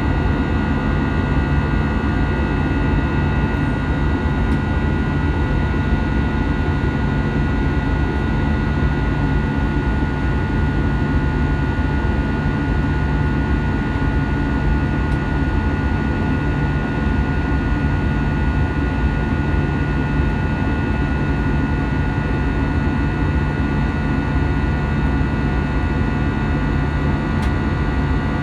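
Steady cabin noise of an Airbus A320-200 in flight: a continuous low rumble and rush of air, with several steady whining tones from the jet engines.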